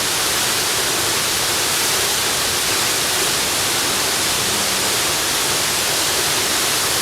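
Waterfall rushing steadily: an even, unbroken hiss of falling water, strongest in the high pitches.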